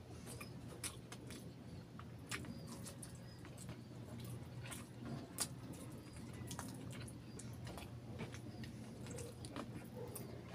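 Close-up wet chewing and lip smacking as saucy barbecue chicken is bitten and eaten by hand, with many irregular sharp mouth clicks. A low steady hum runs underneath.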